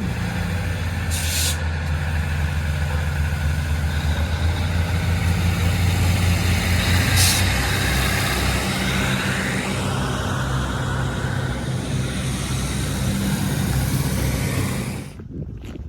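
Class 156 diesel multiple unit with its underfloor diesel engine running, a steady low drone under a wash of running noise, with two short hisses of air, about a second in and about seven seconds in. The sound drops off abruptly near the end.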